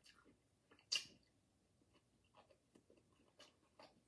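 Faint chewing and small mouth sounds of a person eating fried fish, with scattered soft clicks and one sharper click about a second in.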